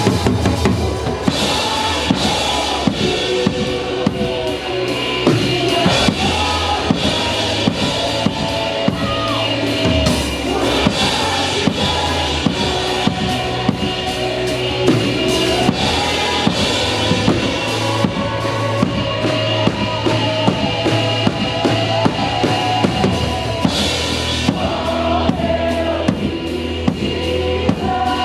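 Drum kit played live at a steady beat, kick and snare prominent, over the sustained pitched parts of the rest of the band.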